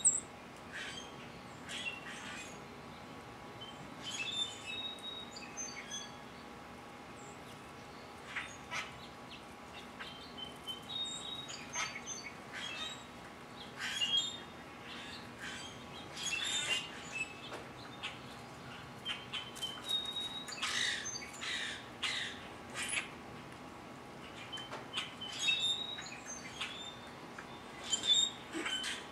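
Birds calling: short sharp chirps and brief squeaky calls scattered throughout, coming thickest about two-thirds of the way in.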